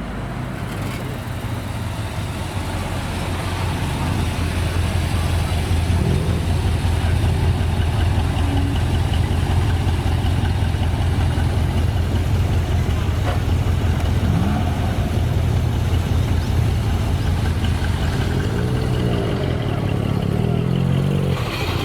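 Car engine running at a steady speed with a deep, even rumble and no revving, growing louder over the first few seconds and then holding steady.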